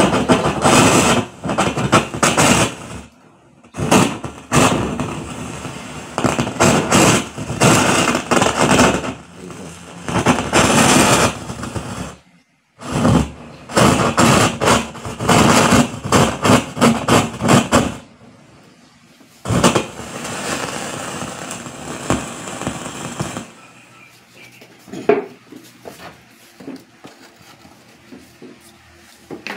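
Loud crackling and scratchy static from a speaker, coming in bursts that cut in and out and fading low for the last several seconds: the sign of a worn, dirty volume control potentiometer.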